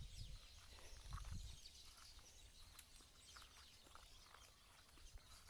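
Near silence: faint rural outdoor ambience with a low rumble, scattered faint ticks and faint bird chirps.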